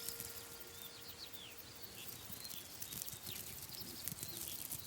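Faint countryside ambience: small birds give short, falling chirps now and then over a soft bed of high clicks and rustle. A faint held tone fades out about two seconds in.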